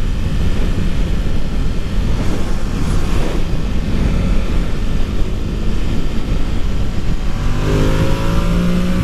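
Ducati Monster 1200 R's V-twin engine running under way with heavy wind rush on the microphone. A little over seven seconds in, the engine note comes up clearly and rises as the bike accelerates.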